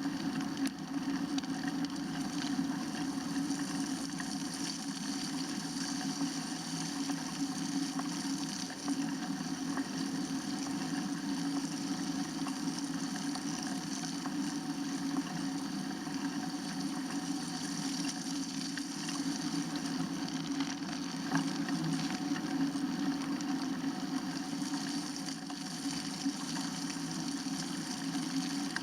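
Steady, unbroken drone of riding noise during a bike ride on winter roads: tyre and wind noise.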